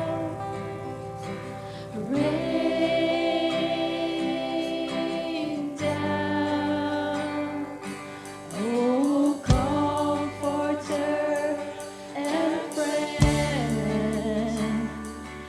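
Live worship music: voices singing a slow melody over sustained keyboard or bass chords, with occasional drum hits.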